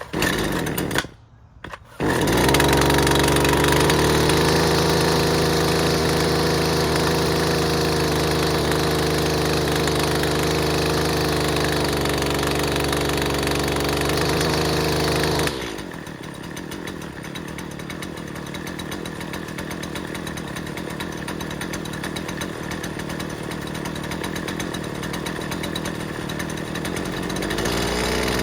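Husqvarna 128CD string trimmer's 28cc two-stroke engine being pull-started cold: a couple of short bursts as the cord is pulled, then it catches about two seconds in and runs steadily at a high, even speed. About halfway through it drops to a lower, rougher idle, picking up a little near the end.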